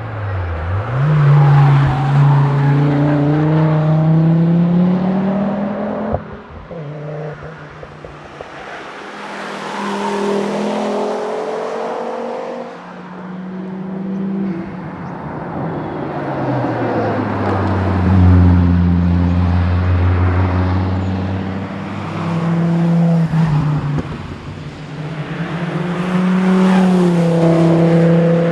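Volvo 850R's turbocharged five-cylinder engine under hard competition driving. The revs climb under acceleration several times, fall away at each upshift or lift for a corner, and hold steady in between.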